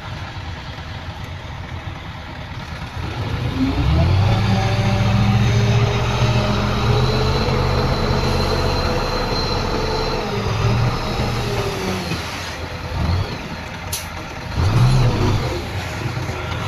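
Heavy diesel engine of earthmoving machinery revving up about three and a half seconds in and working under load, easing off near the end, then revving briefly again, with a sharp click in between.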